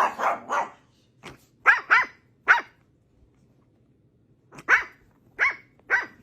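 A dog barking: a quick run of short, sharp barks, a pause of about two seconds, then three more barks near the end.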